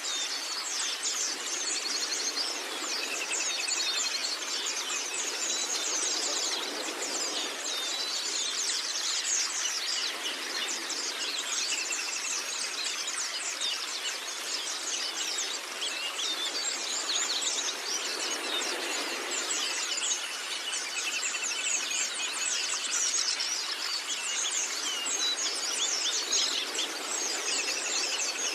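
Pleci (white-eyes) twittering in a rapid, unbroken stream of high chirps and short trills, over a steady background hiss.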